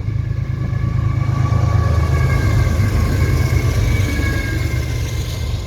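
CSX manifest freight train passing with a loud, steady low rumble that swells in the middle. Faint, steady high-pitched tones sound above it.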